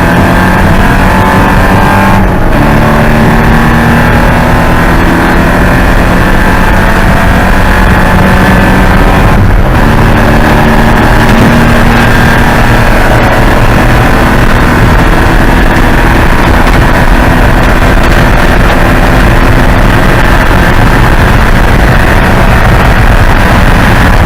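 Porsche 944 race car's four-cylinder engine running hard under racing load, loud, its pitch rising and falling through the revs. There are two brief breaks, about two and a half and nine and a half seconds in.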